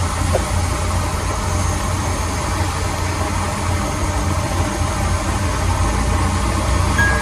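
Heavy diesel engine of earthmoving machinery running steadily with an even low rumble. A short high tone sounds near the end.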